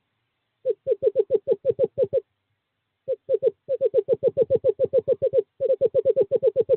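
Male screech owl singing its trill: rapid runs of short hoots, all on the same low pitch. There are three runs with brief breaks between them, and the last speeds up near the end. It is a courtship call to a female at the nest box.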